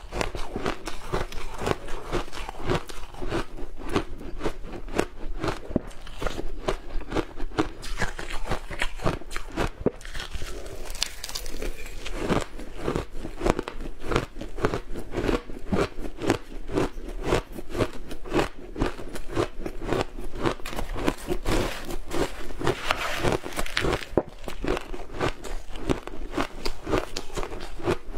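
Ice being bitten and chewed close to the microphone: a dense, continuous run of crisp crunches, several a second.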